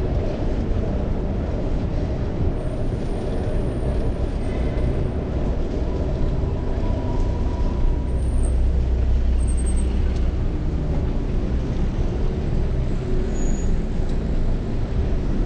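Steady rush of riding wind on a chest-mounted action camera's microphone, mixed with the hum of city road traffic, as a bicycle moves along the street.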